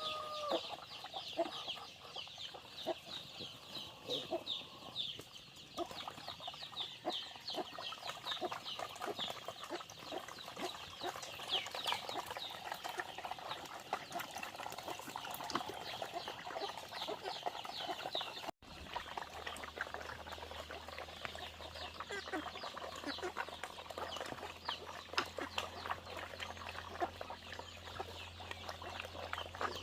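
Chickens clucking and peeping, with many short high calls in quick succession. After a brief dropout about two-thirds of the way through, a low steady hum runs under the calls.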